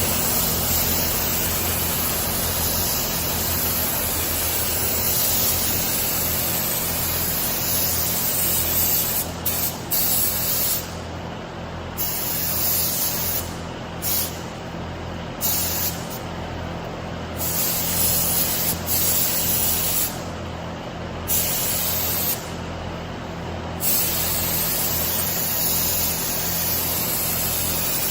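Paint spray gun hissing as clear coat is sprayed, with the trigger let off for a second or so about six times in the second half. A steady low hum runs beneath it.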